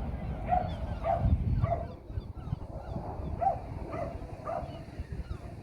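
A run of short animal calls, about two a second, each rising and falling in pitch, over a low rumble.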